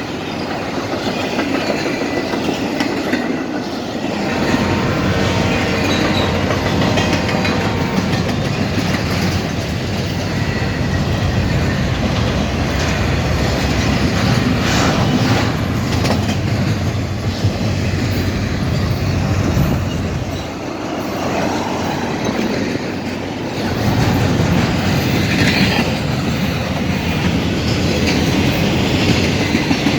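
Norfolk Southern train's railroad cars rolling past, wheels clattering steadily over the rail joints.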